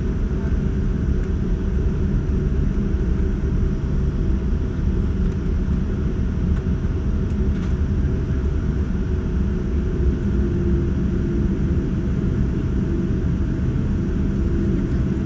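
Steady low rumble of a Boeing 787-9 cabin heard from a window seat as the airliner taxis, its engines at idle, with a thin steady hum above it.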